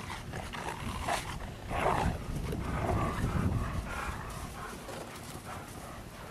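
Dogs playing in snow: dog vocal noises over scuffling, loudest in the first half and easing off toward the end.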